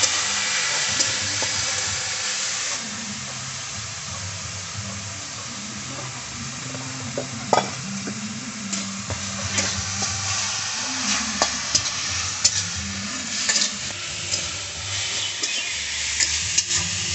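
Sliced bamboo mushrooms frying in hot oil in an iron kadai, sizzling steadily, a little louder for the first few seconds. A metal spatula stirs them, scraping and clicking against the pan from about halfway through.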